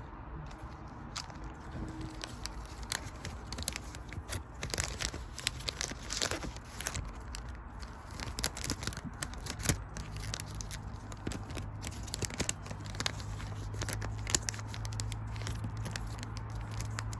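Foil booster-pack wrappers and trading cards being handled: irregular crinkling, crackling and tearing sounds with small clicks. A steady low hum comes in about ten seconds in.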